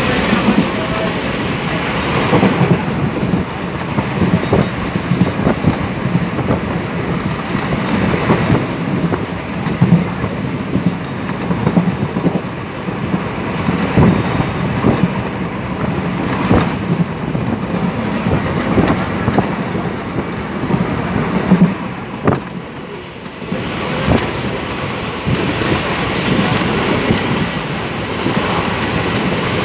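Steady rushing rumble of a moving train, with frequent irregular knocks and rattles, easing off briefly about two-thirds of the way through.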